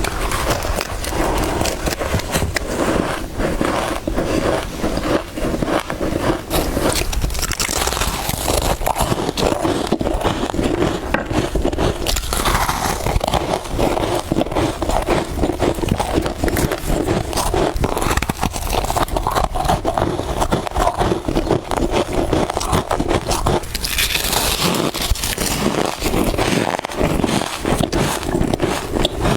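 Close-miked biting and chewing of soft freezer frost: dense, continuous crunching made of many small crackles.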